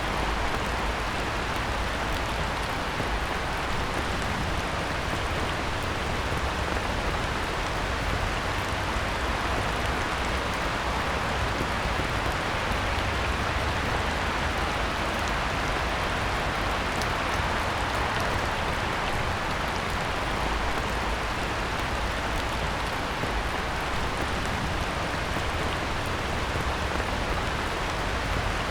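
Heavy rain falling steadily on a pond's surface, an even, unbroken hiss of countless drops.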